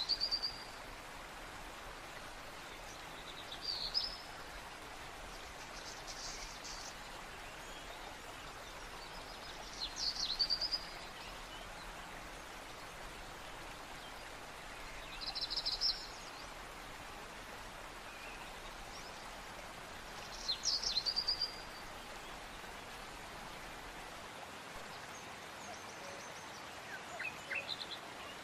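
A bird calling again and again: short, bright, trilled chirps about every five seconds over a steady hiss of background noise.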